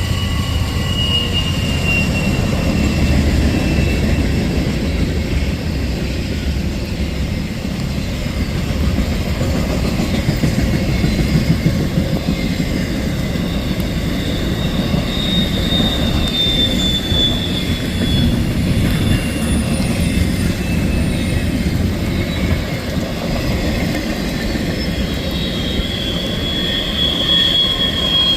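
Freight train rolling past with a steady rumble of wheels on rail. High wheel squeal rises and fades several times, loudest near the end.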